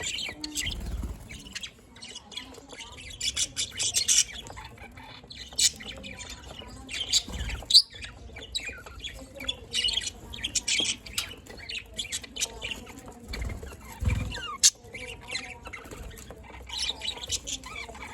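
Budgerigars chattering and chirping, with many short high calls and squawks in bursts, and a few low thumps.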